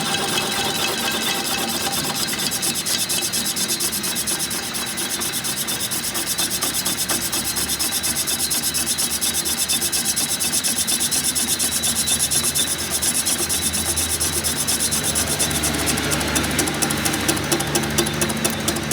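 Rapid, repeated scraping strokes of hand work on a part, a few strokes a second, becoming more distinct near the end.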